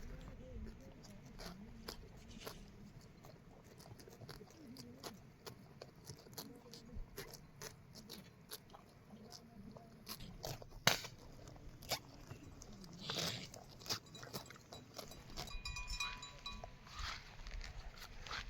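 Goats feeding, with irregular crunching and chewing and scattered sharp clicks, and a brief high-pitched tone about two-thirds of the way through.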